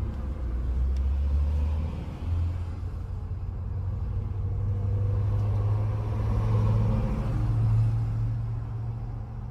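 Car engine and road noise while driving. The engine hum jumps up in pitch about two seconds in, as at a gear change, then rises slowly as the car accelerates and eases off near the end.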